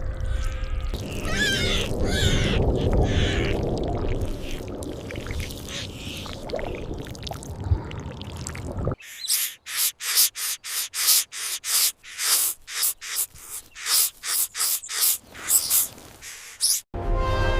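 Bird calls over a low rumble, then a long run of short, sharp, rasping bursts, roughly two a second, through the second half.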